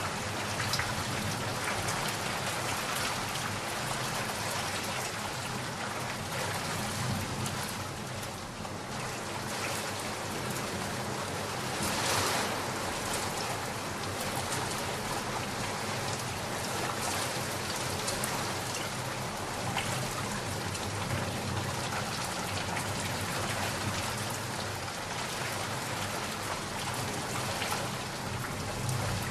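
Steady rain falling and pattering on a surface, with many small drops heard, and a brief louder splash or gust about twelve seconds in.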